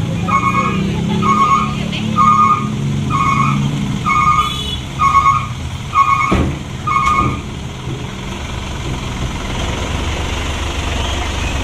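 Dump truck's reversing alarm beeping about once a second over the steady low running of its diesel engine, the beeps stopping about two-thirds of the way through while the engine runs on.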